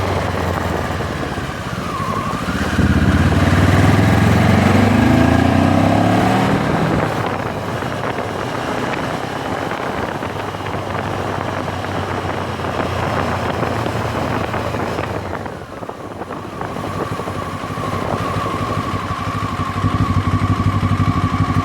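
MZ 1000 motorcycle's parallel-twin engine pulling up through the revs about three seconds in, then running steadily on the road, and settling to a steady low running note near the end.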